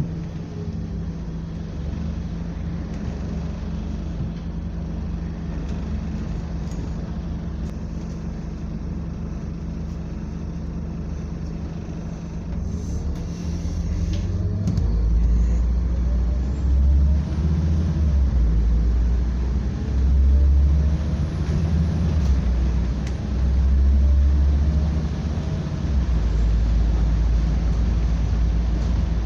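Scania double-decker bus under way, its engine and road noise humming steadily. About halfway through, a heavier low rumble swells in and out several times.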